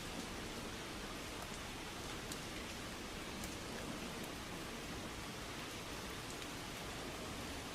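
Heavy rain falling steadily on a car, a constant hiss with a few sharper drop ticks now and then.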